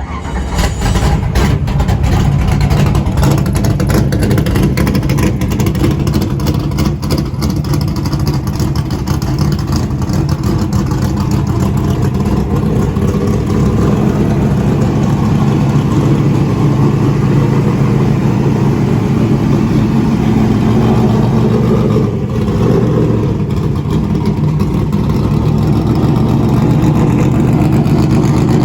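Ernie Elliott-built NASCAR race V8 firing up at once on the starter and running loudly and steadily, its dry-sump oil pre-warmed and circulated before the start. The engine note shifts slightly through the middle and dips briefly about three-quarters of the way through.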